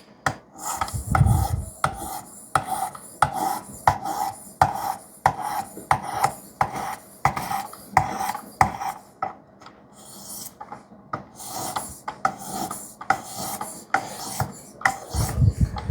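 A Demko knife's 3V steel blade stroked again and again across an 800-grit sharpening stone on a Work Sharp guided sharpener. The strokes are short, gritty and evenly paced, about one and a half a second, with a couple of low bumps of the rig being handled.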